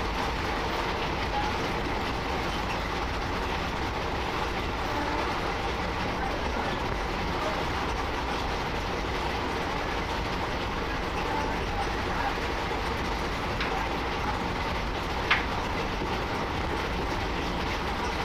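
Electric-hauled passenger train running steadily, heard from aboard at an open door or window: continuous noise of wheels on the rails, with one sharp click about fifteen seconds in.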